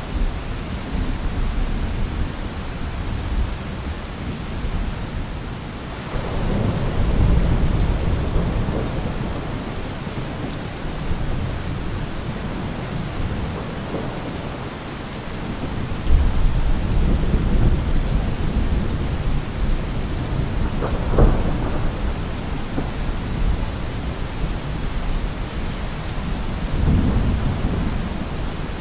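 Steady heavy rain with rolling thunder: several long low rumbles and one sharper crack a little past the middle.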